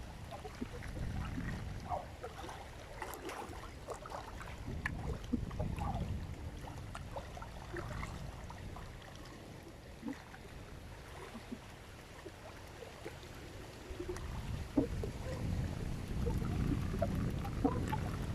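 Wind rumbling on the microphone, uneven and easing off in the middle before picking up again near the end, with scattered small faint clicks and knocks.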